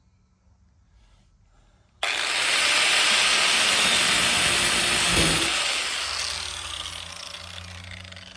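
A power cut-off tool starts abruptly about two seconds in and runs at full speed for about three and a half seconds, cutting through the truck's rusted sheet-metal body panel. It is then let off and winds down with a falling whine.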